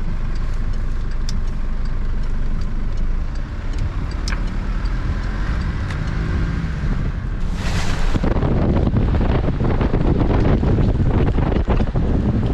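A UTV's engine running steadily as it drives. About eight seconds in, a loud rushing noise takes over: floodwater running at a river crossing, mixed with wind on the microphone.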